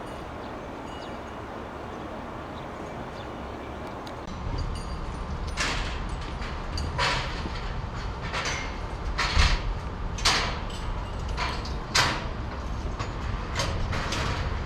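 A low rumble setting in about four seconds in, overlaid by a string of short hissing bursts roughly once a second.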